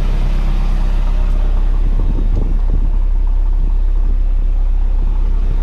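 Car engine running close by, a steady low sound with no revving.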